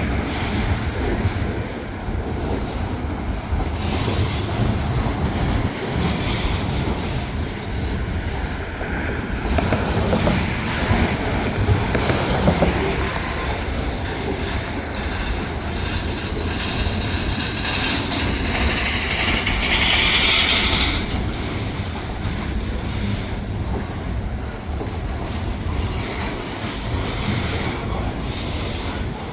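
Freight train cars rolling past close by: a steady rumble of steel wheels on the rail with clicking over rail joints. For several seconds past the middle, a high wheel squeal rises over the rumble, then stops.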